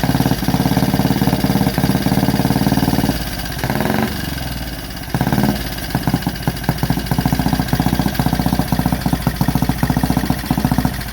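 1928 Benelli 175 Turismo engine running with a quick, even exhaust beat, now firing cleanly after clearing out. About three seconds in it drops to a quieter, slower idle for a couple of seconds, then picks back up.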